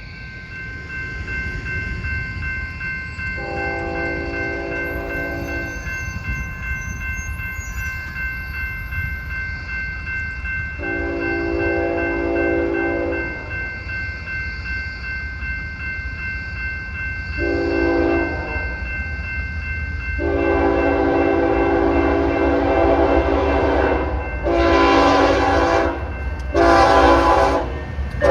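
Locomotive multi-chime air horn sounding two long blasts, a short one and a long one, the standard grade-crossing signal, then three quicker blasts near the end. A passing train rumbles steadily underneath.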